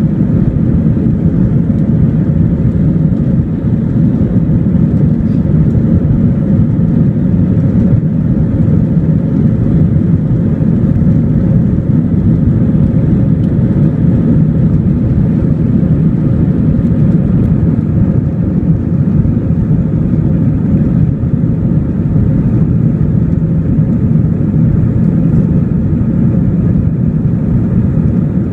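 Steady, loud cabin noise inside an Airbus A321-231 in flight: the low drone of its IAE V2500 engines and air rushing past the fuselage, with a faint steady hum, unchanging throughout.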